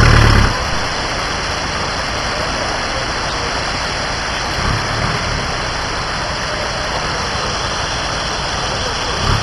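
An off-road 4x4's engine, revving in the muddy water, drops back about half a second in. After that a steady even hiss fills the sound, with the engine running low underneath and rising briefly about halfway through and again near the end.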